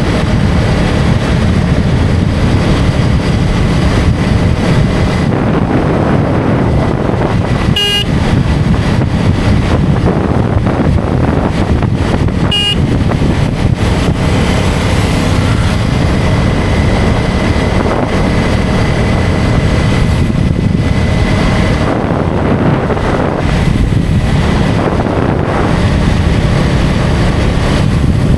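KTM Duke 250's single-cylinder engine running steadily at riding speed, under heavy wind noise on the microphone. Two short horn beeps sound, about eight and twelve and a half seconds in.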